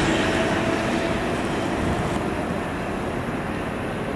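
Ten-car Bombardier M7 electric multiple-unit train pulling away from the platform, its running noise fading steadily as it moves off.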